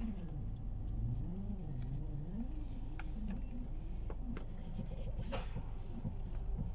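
Failing ball joint in a car's front suspension squeaking as the steering is turned: a wavering, rubbery squeal that rises and falls in pitch again and again, over a steady low hum, with a few sharp clicks.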